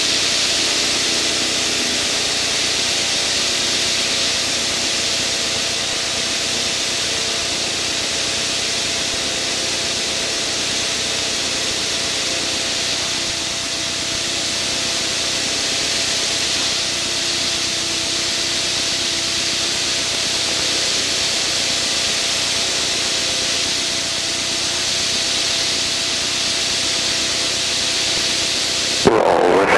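Steady cockpit noise of an aircraft in flight: a constant rushing hiss of airflow and engine with a faint steady hum underneath.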